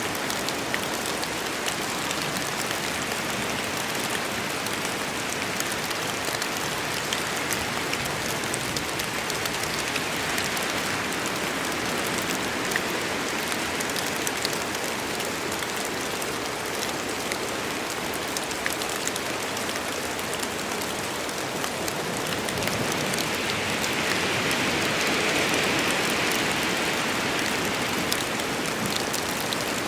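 Steady heavy rain falling on a forest, a dense hiss with many fine drop patters, swelling slightly in intensity about three quarters of the way through.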